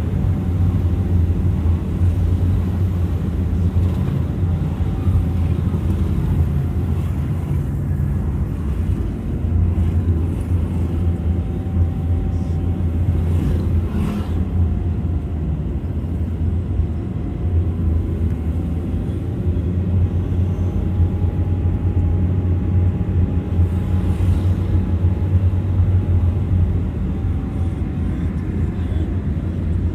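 Steady low rumble of a vehicle's engine and road noise while driving, with a faint whine that drifts slightly in pitch.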